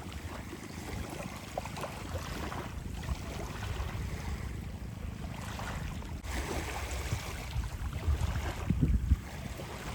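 Sea waves washing on the shore, with wind buffeting the microphone in a low rumble that gusts louder near the end.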